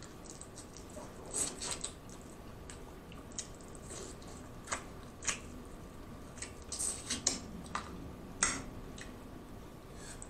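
Close-miked chewing of snow crab meat: soft, wet mouth smacks and squishes in scattered short clicks, thickening into a cluster in the second half with one louder smack near the end.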